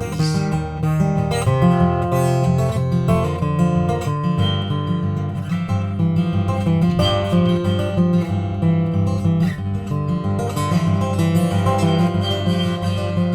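Acoustic guitar played steadily with picked and strummed chords, an instrumental passage of a folk song with no singing.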